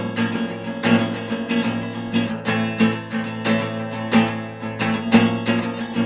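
Acoustic guitar strummed in a steady rhythm, chords ringing between strokes, as an instrumental break between sung verses.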